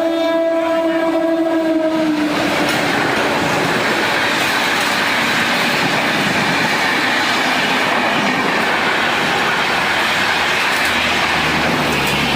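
A train horn sounds one long note for about two seconds and dips in pitch as it ends. It is followed by the loud, steady rush of a fast train passing close by.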